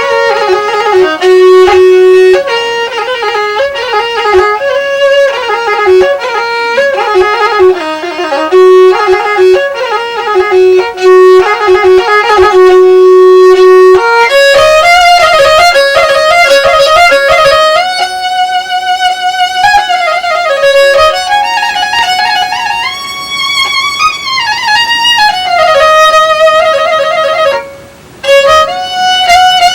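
Violin music: one melody line with vibrato, played in long held notes and quicker runs, breaking off briefly near the end.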